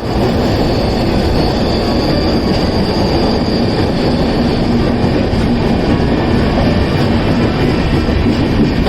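Train running on the rails with a steady rumble, and a high, steady squeal of wheels against the rail held throughout.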